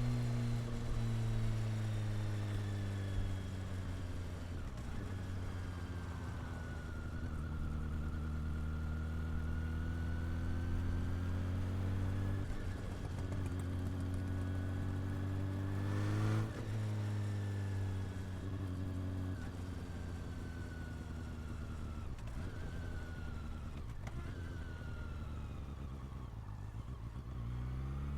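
Honda CB400 Super Four's inline-four engine and exhaust while riding: running steadily at moderate revs, the pitch easing down and rising again as the speed changes, with a quick jump in revs about sixteen seconds in and revs climbing near the end.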